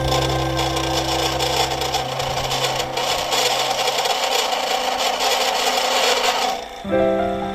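Mini lathe cutting metal: a steady, harsh scraping as the tool works the spinning workpiece.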